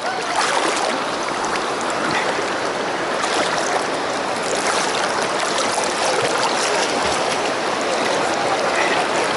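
Fast-flowing river or creek water rushing steadily, a dense splashing rush that gets louder just after the start.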